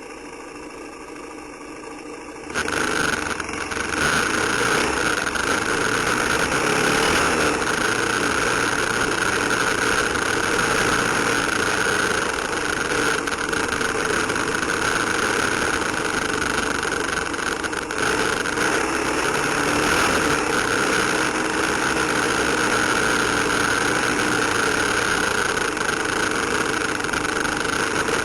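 Single-cylinder 250 cc dual-sport motorcycle engine running steadily. It cuts in abruptly about two and a half seconds in, after a quieter opening.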